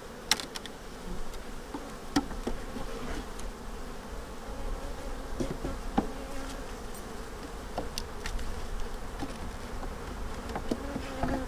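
Honeybees buzzing around an opened hive in a steady hum. A few sharp clicks and knocks come through it, the loudest near the start, about two seconds in and about six seconds in, as frames are handled.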